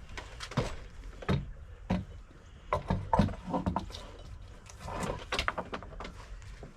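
Irregular knocks and clattering of wooden deck boards being struck and pulled loose during deck demolition, with a cluster of sharper hits about three seconds in and another about five seconds in.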